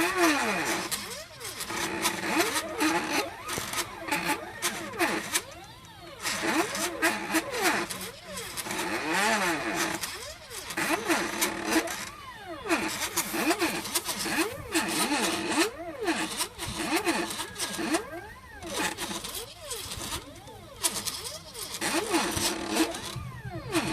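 Stepper motors of a cheap hobby CNC machine on a test run, whining in many short sweeps that rise and fall in pitch as the axes speed up and slow down with each move.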